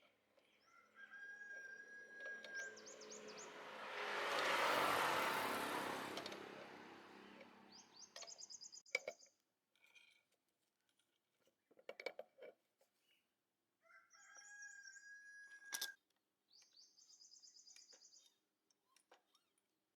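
Rooster crowing and small birds chirping in short high trills, with a louder rush of noise that swells and fades a few seconds in.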